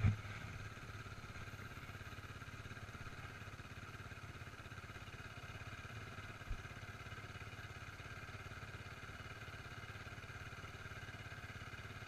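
Off-road motorcycle engine idling steadily, with one brief knock about halfway through.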